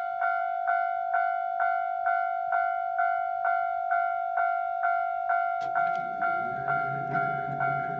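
Japanese level-crossing warning bell ringing, a steady electronic ding repeated about twice a second. About five and a half seconds in, a low drone joins it as the one-car train draws near.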